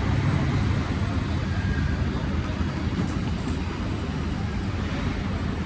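Steady low engine rumble with an even hiss above it, unchanging throughout.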